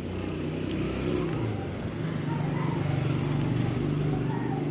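Motorcycle engine passing close by on the road, its engine note growing louder over the first second or so and then running steadily.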